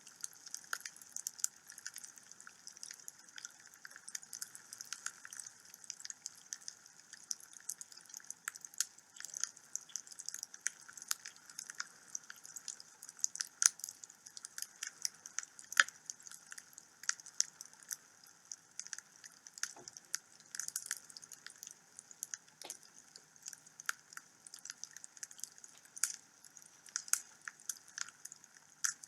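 Wood fire crackling in a home fireplace: a steady run of small irregular pops and snaps, with a few louder cracks scattered through, over a faint hiss.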